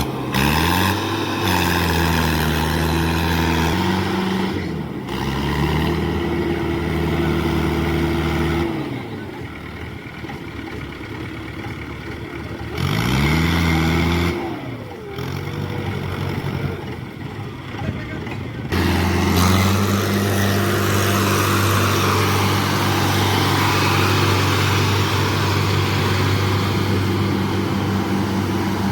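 Tractor diesel engine revving up near the start and again about thirteen seconds in, easing off in between, then running steadily at high revs from about nineteen seconds, as in a tractor working to pull free of mud.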